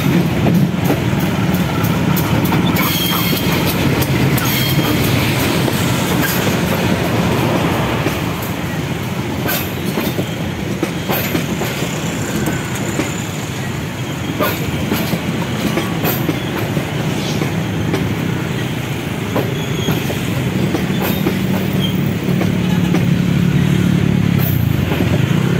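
Diesel-hauled passenger train rolling past close by: the steady rumble of the coaches on the rails with scattered wheel clicks, over the low hum of the diesel locomotive.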